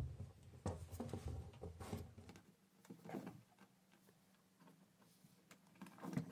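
Handling noises from a top-loading washing machine being reassembled: a few light knocks and clicks of parts as a wire is laid in place, with a quieter stretch in the middle and another knock near the end.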